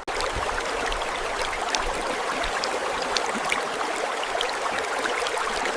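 Water running in a small stream: a steady babbling with many small trickling splashes.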